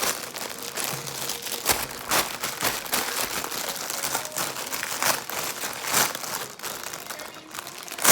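Packaging crinkling and rustling in irregular bursts as it is handled and pulled open around a plush toy.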